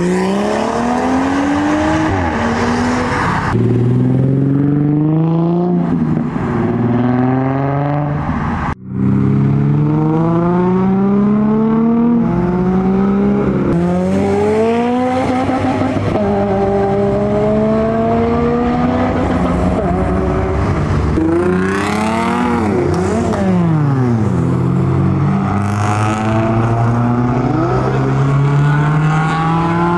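Modified cars accelerating away one after another, each engine rising in pitch as it revs through a gear and dropping back at the shift. A brief break in the sound about nine seconds in.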